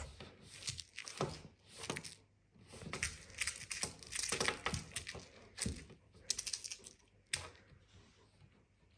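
Cat toy rattling and rustling on a hard surface: a rapid, irregular patter of clicks and scuffs that dies away near the end.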